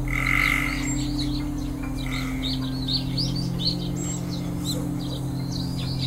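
Songbirds chirping and calling in quick, varied short notes, over a steady low drone of ambient music.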